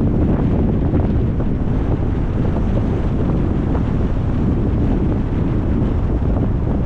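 Steady low rumble of wind buffeting the microphone of a moving car, with the road noise of the drive under it.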